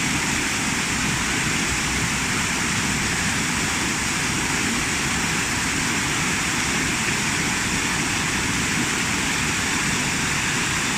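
Waterfall rapids rushing steadily, the churning water close to the microphone.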